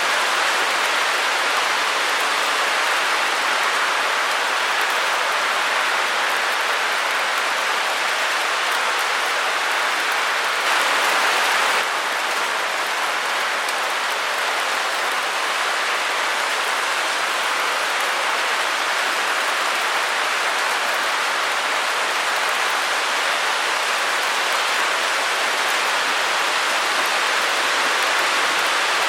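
Steady, even hiss of white noise, briefly a little louder about eleven seconds in.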